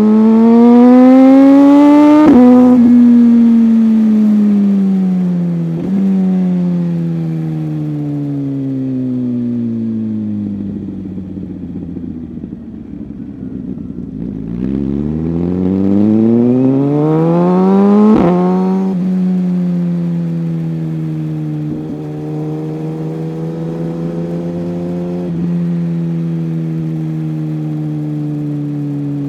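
Superbike engine under way: the revs climb, then drop sharply at an upshift about two seconds in, and the engine winds down over several seconds to a low rumble. It then pulls hard again to another upshift near the middle and settles into a steady cruise with a couple of small shifts.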